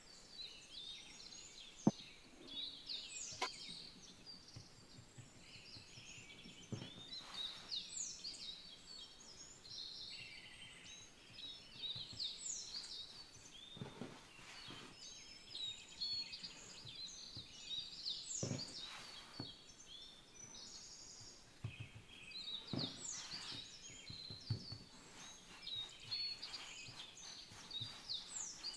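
Many birds chirping, with overlapping short high calls and quick downward whistles. A few soft knocks are mixed in, and one sharp click comes about two seconds in.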